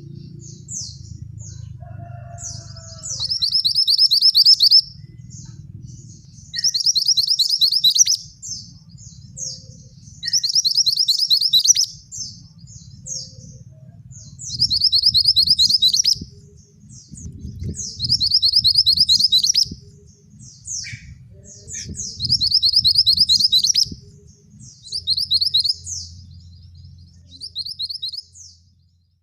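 A male mantenan singing vigorously: about seven loud phrases of rapid, high-pitched trilled notes, each lasting a second or two and repeated every three to four seconds, with short high chips in between. A low rumble sits underneath.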